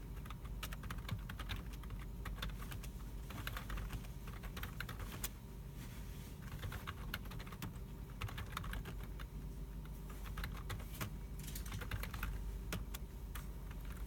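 Computer keyboards typing in irregular bursts of key clicks in a library computer room, over a steady low hum.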